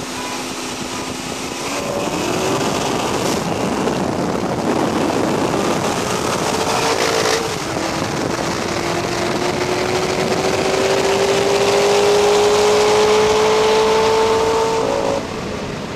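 V8 street cars at full throttle side by side, among them a Vortech-supercharged C6 Corvette, heard from a car running alongside with heavy wind and road rush. The engine pitch climbs, breaks at a gear change about seven seconds in, and climbs again for several seconds before dropping off as the throttle is lifted near the end.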